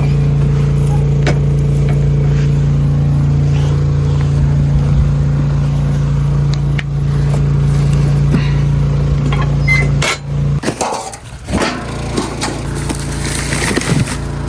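An engine running steadily with a constant low hum. It cuts out abruptly about ten seconds in, followed by a few seconds of scraping and knocking.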